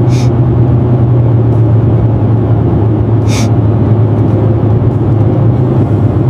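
Vehicle engine running with a steady, loud low rumble, with a brief hiss about three seconds in.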